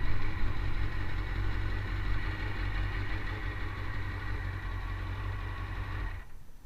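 Motorcycle engine running steadily, slowly getting quieter, then cutting off suddenly about six seconds in.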